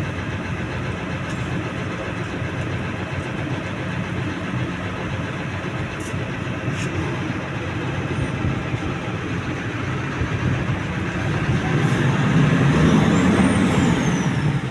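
A heavy vehicle's engine running steadily, swelling louder about twelve seconds in.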